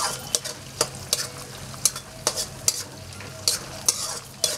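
Peanuts, green chillies and curry leaves frying in oil in a steel kadhai, being fried until crisp: a steady sizzle broken by about a dozen irregular sharp scrapes and clicks of the spatula against the pan as it stirs.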